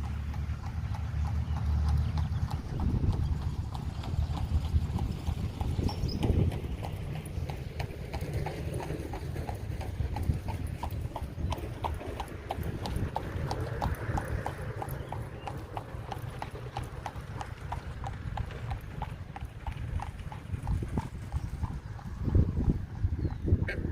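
A steady rhythm of clopping steps, about two or three a second, over a low rumble.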